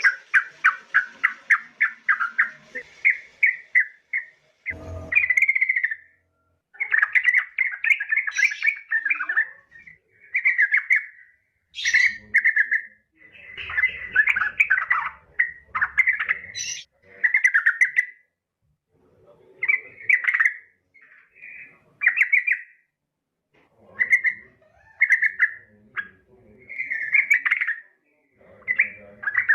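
Yellow-vented bulbul chattering in bursts of rapid, bubbly notes, phrase after phrase with short pauses between; the recording is presented as a female calling to males. A brief low knock about five seconds in.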